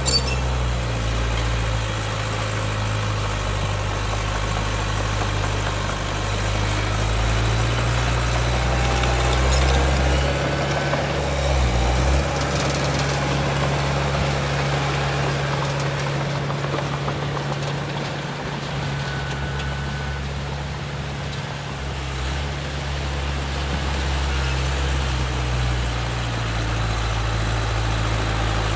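Heavy diesel earthmoving machinery running steadily, its low engine note shifting a few times.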